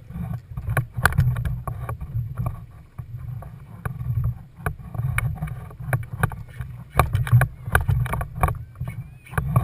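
Water slapping against a kayak's hull, with irregular sharp knocks over a steady low rumble.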